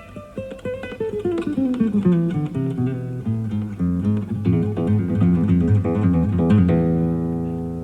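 Classical guitar playing a fast run of notes that steps down into the bass, then quick low figures, then a chord struck near the end and left to ring out and fade. It is heard off a cassette recording of an FM radio broadcast.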